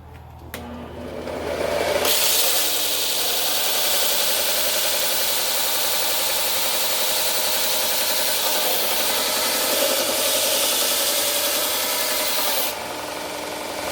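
Power sander starting up and grinding metal flat: a steady abrasive rasp over the hum of the motor. The rasp eases near the end as the work comes off.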